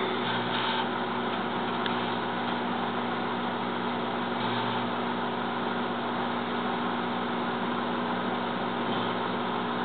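Microwave oven running with grapes inside: a steady electrical hum with the fan noise, unchanging throughout, with one faint tick about two seconds in.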